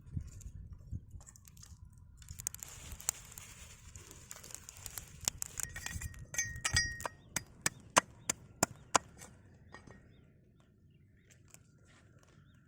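Scattered clicks and clinks of food preparation, then a quick run of about six sharp, evenly spaced chopping strikes, like a knife or cleaver on a board, about two-thirds of the way through.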